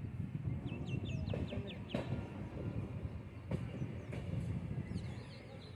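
Steady low rumble of a moving passenger train heard from the coach, with a couple of sharp clacks about two and three and a half seconds in. A bird gives a quick run of about six short high chirps about a second in, and more near the end.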